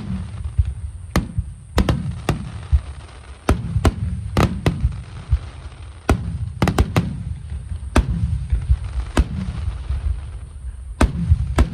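Aerial fireworks bursting: about a dozen sharp bangs at irregular intervals, some in quick clusters, over a continuous low rumble of booms.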